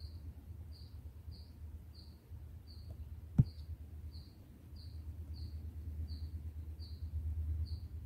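A bird's short, high chirp repeated evenly about twice a second, over a steady low rumble. A single sharp knock cuts in about three seconds in.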